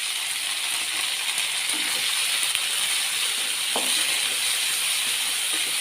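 Sliced ivy gourd, onion and green chillies sizzling steadily in oil in a non-stick frying pan, just salted, with a few faint ticks.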